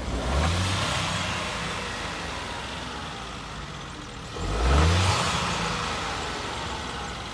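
2020 Honda Civic engine blipped twice, the revs rising quickly and falling back, once near the start and again about four and a half seconds in; the second is louder. The engine settles back toward idle between them.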